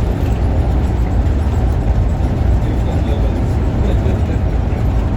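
Scania OmniLink city bus under way, heard from inside the cabin: a steady low rumble of engine and road noise.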